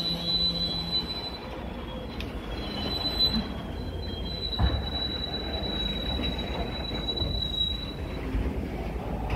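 Freight train of covered hopper wagons rolling past, its wheels squealing in a thin, steady high-pitched tone over a low rumble. The squeal breaks off briefly about a second in and fades out near the end, with a single clunk about halfway through.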